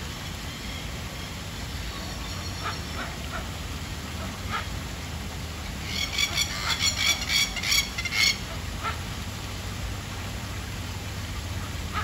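A bird calling a rapid run of about ten loud, harsh notes over two seconds, starting about halfway through, with a few faint short calls earlier, over a steady low rush of water.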